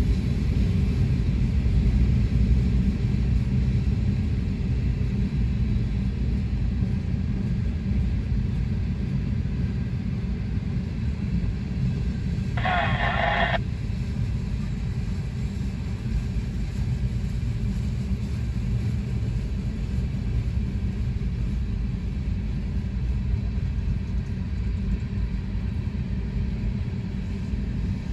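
Freight train cars rolling past on the rails, a steady low rumble heard from inside a car's cabin. A brief higher-pitched sound lasting about a second comes about halfway through.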